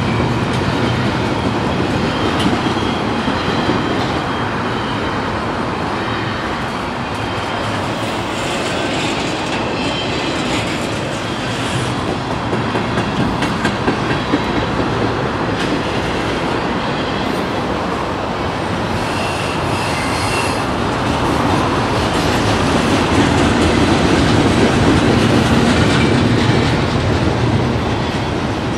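Double-stack container cars of a Norfolk Southern intermodal freight train rolling past: a steady rumble of steel wheels on rail with clicking over rail joints and occasional faint wheel squeals, growing louder a few seconds before the end.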